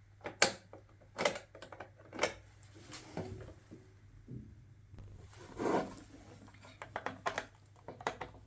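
Irregular sharp clicks and taps of small parts being worked loose from a home theatre system's circuit board by hand, with a short scraping sound near the middle. A low steady hum runs underneath.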